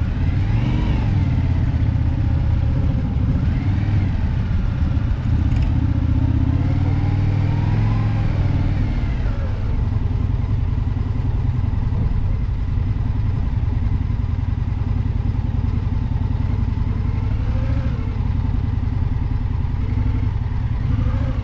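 Indian V-twin motorcycle engine running steadily at road speed, with wind noise. Its pitch rises and falls a few times in the first half as the throttle changes.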